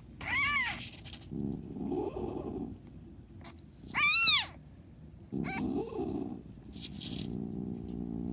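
Newborn kitten mewing in high, thin rising-and-falling cries: three calls, the loudest about four seconds in and a short one soon after.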